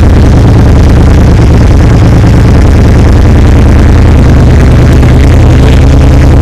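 Suzuki SV1000's V-twin engine running loud and steady through an aftermarket Danmoto exhaust.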